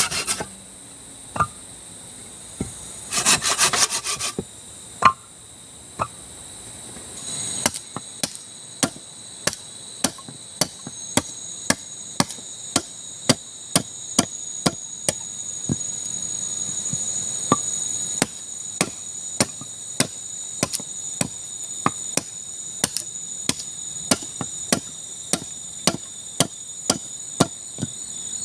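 Hand work on wood: a short bout of rapid rasping strokes, then a long, steady series of sharp wooden knocks, a little under two a second. Insects shrill steadily throughout at a high pitch.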